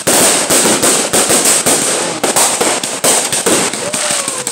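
A rapid, continuous volley of consumer fireworks shots and crackling bursts, with a short falling whistle near the end.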